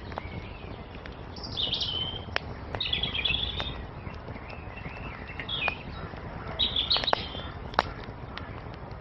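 Small songbirds chirping in four short, quick phrases over a crackling wood fire, whose sharp pops and snaps come at irregular intervals, the loudest pop near the end.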